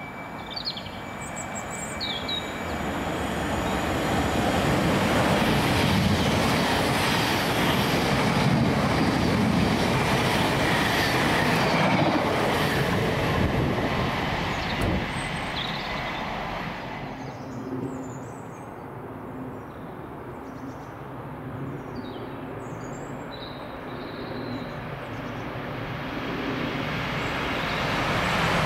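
A train passing through a station at speed. The noise of wheels on rail builds over the first few seconds and stays loud for about ten seconds, then dies away. Near the end the noise rises again as another train approaches.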